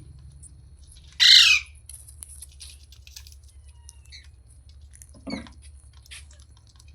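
Rose-ringed (Indian ringneck) parakeet giving one loud, harsh screech about a second in, followed by faint clicks and a brief softer sound about five seconds in.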